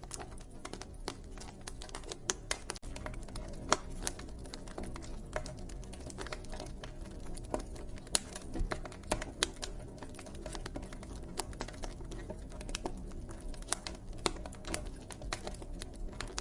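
Wood fire crackling: irregular sharp pops and snaps, several a second, some louder than others, over a steady low rumble.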